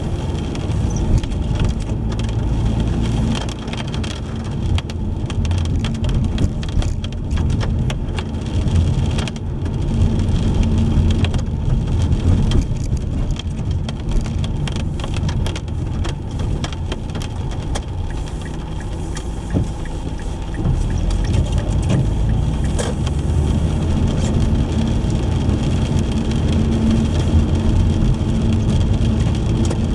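Car driving in the rain: a steady low engine and tyre rumble, with rain pattering and ticking against the car.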